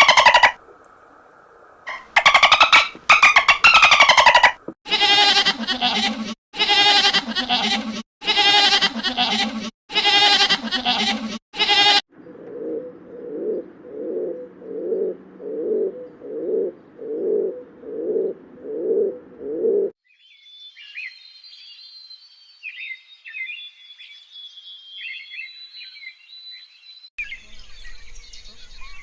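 A run of different animal sounds cut one after another. First come loud repeated calls, about six of them in a row. Then a low, rhythmic pulsing sound goes on for about eight seconds, one beat a second. Faint high chirping takes over near the end.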